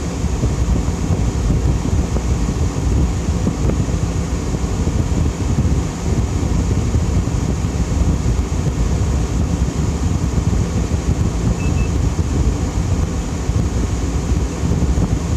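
A Fedders 10,000 BTU window air conditioner running steadily on low fan: an even rush of air over a low hum. A tiny short double beep comes about twelve seconds in.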